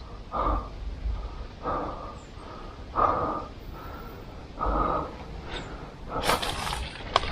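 A man breathing heavily through the nose, a short breath every second or so, with a brief rustle near the end.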